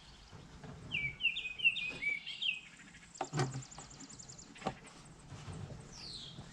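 Songbirds chirping: a quick run of short high chirps, then a fast, very high trill, and a single falling whistle near the end. Two sharp knocks sound about three and four and a half seconds in.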